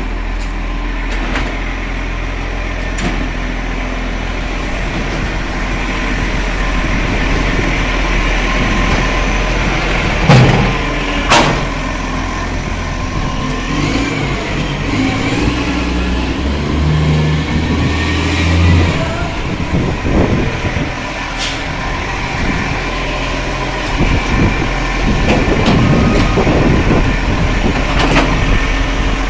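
Garbage truck running, with a steady low engine and traffic rumble. Two short sharp bangs come about ten and eleven seconds in.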